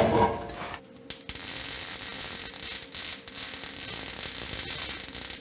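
Electric welding arc crackling and hissing steadily while a cracked exhaust pipe is welded back together, starting about a second in.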